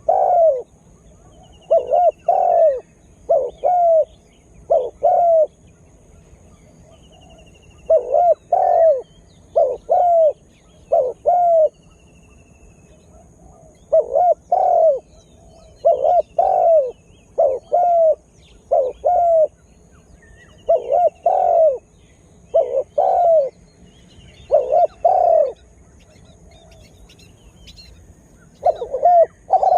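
Spotted dove cooing over and over, each phrase two or three low notes, with pauses of a second or several between phrases. A small bird gives faint, high, falling trills several times in the gaps.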